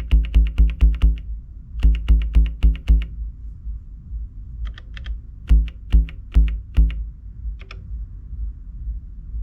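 Elektron Digitakt playing a sampled bass line: fast runs of short, low repeated notes with a clicky attack, then sparser notes from about four and a half seconds in.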